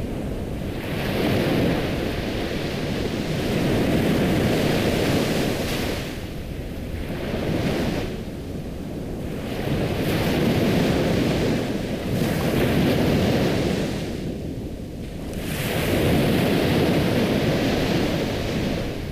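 Ocean waves washing onto a shore, the rushing surf swelling and ebbing every few seconds.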